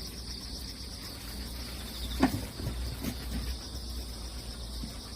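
Crickets chirping in a steady, dense chorus. A single sharp knock stands out about two seconds in, followed by a few softer knocks.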